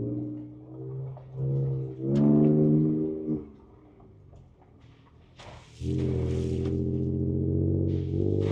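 Ford Ranger Raptor's twin-turbo V6 heard from inside the cab, pulling in throttle surges at a steady pitch: a few short pulls in the first three seconds, a lull, then a longer steady pull from about six seconds in, with bursts of hiss over it.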